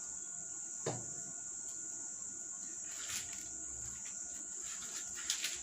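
A steady high-pitched drone, with a sharp click about a second in and light rustling around three seconds and again near the end.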